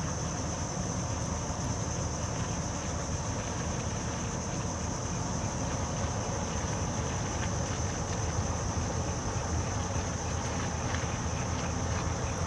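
Boat engine running at a steady low rumble, with an even high-pitched drone over it.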